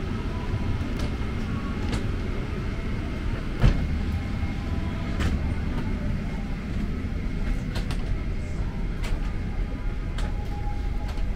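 Steady low rumble from inside a moving vehicle, with scattered light clicks and rattles and one sharp thump about four seconds in.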